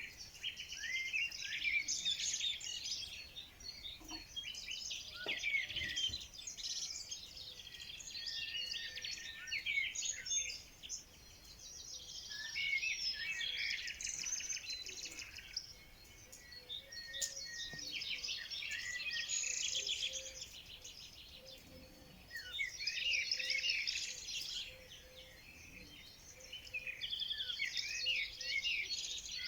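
Songbirds singing and chirping: rapid, overlapping phrases that come in bouts of several seconds, with brief lulls around a third of the way in and again near the end.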